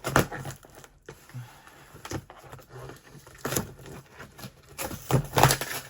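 Parcel packaging being pulled and torn open by hand: a few short rustling, ripping bursts, the loudest near the end.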